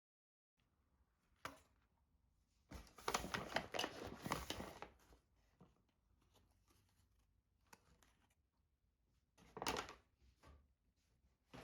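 Faint rustling handling noises in a small room: a couple of seconds of dense rustling about three seconds in, a shorter burst near the end, and a few light clicks between.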